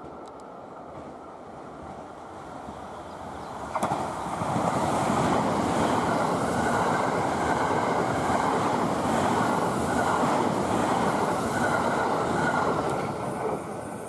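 A train passing at speed: it approaches, then gives a loud steady rush of wheels on rail for about nine seconds, then fades away.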